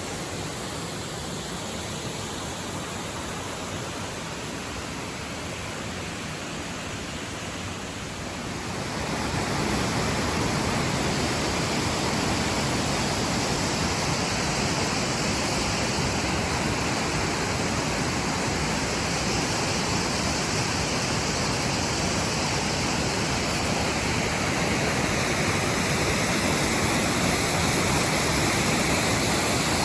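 Waterfall rushing, a steady dense roar of falling water that grows louder about nine seconds in and then holds steady.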